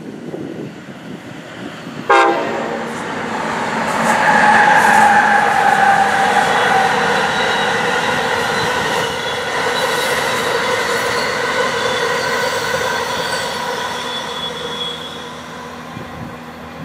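Amtrak passenger train passing on the electrified Northeast Corridor, its horn blowing suddenly about two seconds in. Several steady ringing tones follow over the rumble of the passing cars, then fade near the end.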